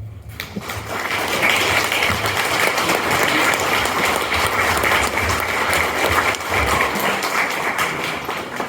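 Audience applauding, many hands clapping; it swells over the first second or so and starts to die away near the end.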